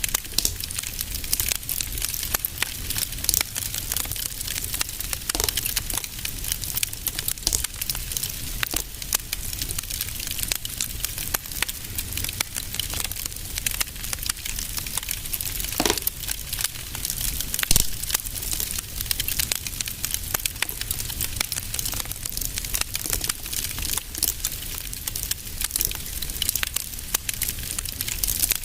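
Wood fire crackling continuously, with irregular snaps and a few louder pops, over a low steady rumble.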